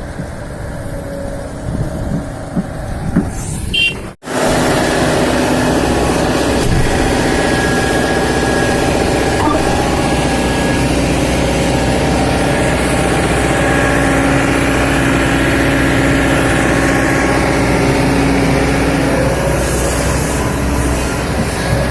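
Heavy diesel engine of earthmoving or truck machinery running steadily and loud at a truck-loading site. The first four seconds carry a quieter low rumble; the sound then cuts out for an instant and comes back as a close, steady engine note.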